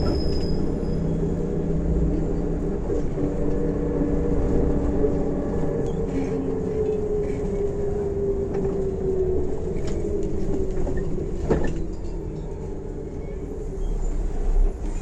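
MAZ-105 articulated bus under way, heard from inside the cabin: steady engine and road rumble, with a drivetrain whine that slowly falls in pitch about halfway through and a single click near the end.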